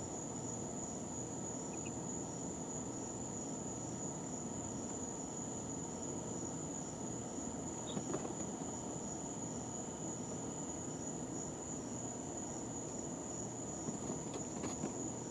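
A steady high-pitched whine over a constant low hiss. A faint chick peep comes about eight seconds in, and a few soft brief rustles follow near the end.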